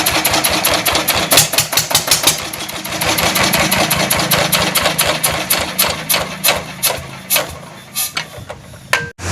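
A 14 hp single-cylinder diesel engine knocks with each firing stroke. The beats slow down and fade as the engine winds down toward a stop. The sound cuts off abruptly just before the end.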